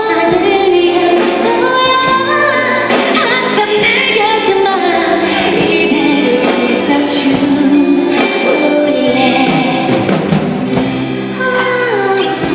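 A female pop vocalist singing a ballad with a live youth orchestra accompanying her, her voice gliding over sustained strings and orchestral chords.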